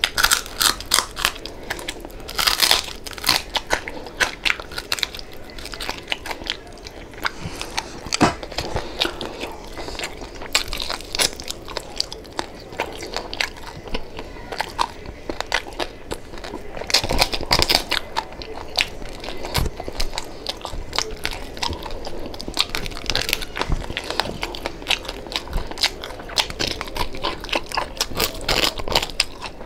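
Close-miked chewing and biting of crispy deep-fried pork knuckle (crispy pata), with dense, irregular crackly crunches throughout; the loudest clusters come a couple of seconds in and again past the middle.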